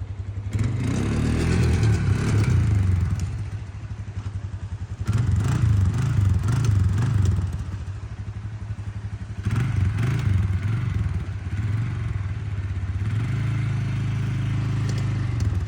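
A motor vehicle's engine revving in four surges of a few seconds each, dropping back to a lower, steady run between them.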